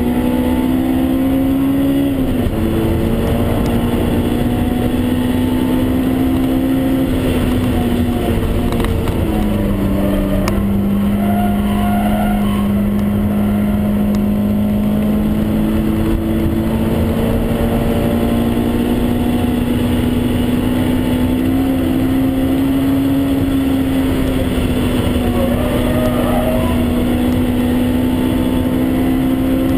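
Honda S2000 AP1's 2.0-litre F20C four-cylinder engine, heard from inside the cabin, held at high revs under load over wind and tyre noise. The pitch dips about two seconds in and falls again about nine seconds in as the revs drop. It then climbs slowly for most of the rest, with a brief dip about three-quarters of the way through.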